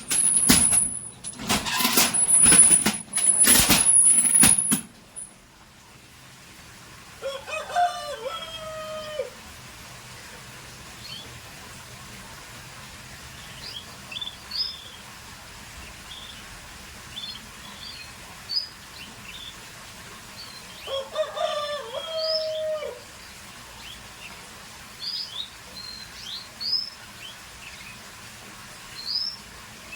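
Scotch Fancy canaries giving short high chirps, with a rooster crowing twice in the background, each crow lasting about two seconds. The first few seconds hold loud rustling, clattering bursts.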